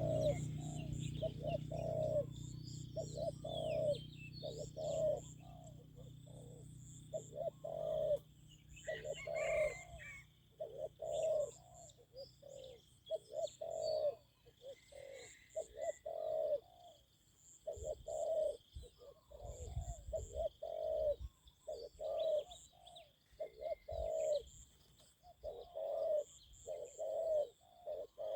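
Spotted doves cooing over and over, a low coo about once a second, with small birds chirping and a steady high-pitched buzz behind. A low rumble fades away over the first several seconds.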